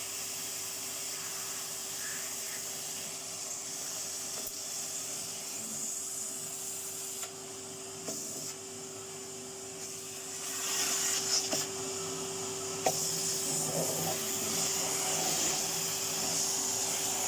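Vacuum cleaner running with a steady hum and airflow hiss, sucking up small metal bits and beads that click sharply now and then as they go into the nozzle. The hiss grows louder about ten seconds in.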